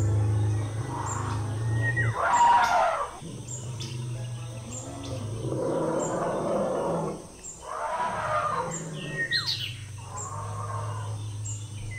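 Birds chirping outdoors, with about four rough noisy sounds, each about a second long, the loudest about two and a half seconds in, over a steady low hum.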